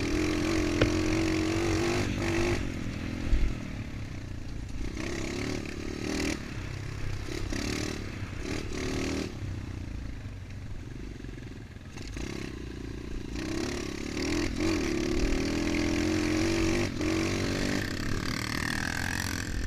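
Small 125 cc dirt bike engine running at fairly low revs, the pitch rising and falling with the throttle, strongest at the start and again in the last few seconds. Rattling and scraping from the bike are mixed in.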